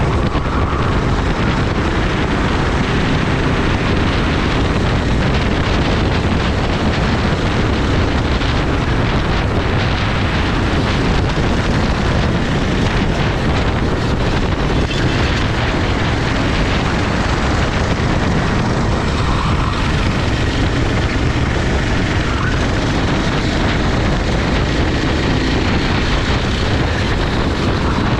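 Racing kart engine running at speed under heavy wind buffeting on the microphone, a continuous loud rush with the engine's pitch rising and falling faintly beneath it.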